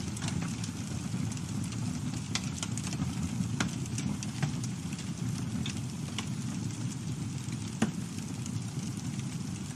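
Campfire burning: a steady low rumble of flame with scattered crackles and pops, one sharp pop about eight seconds in.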